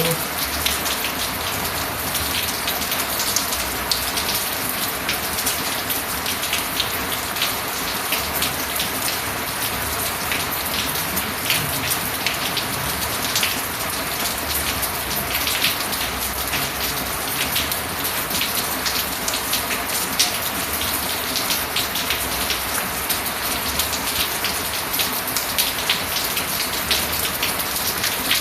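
Steady rain falling: a dense, even hiss made up of many small drop hits.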